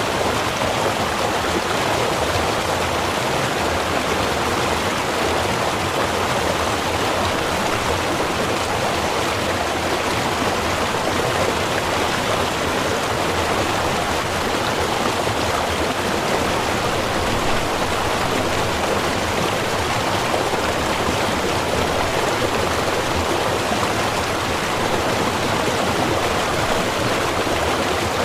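Small river or stream running steadily over rocks: a continuous, even rushing of water with no changes.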